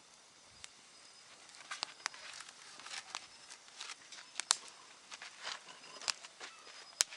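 Wood campfire crackling, with irregular sharp pops scattered through, one loud snap near the end.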